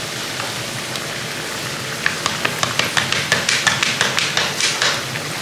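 Food sizzling steadily as it fries in a pan, with a quick run of light clicking taps, about six a second, from about two seconds in until near the end.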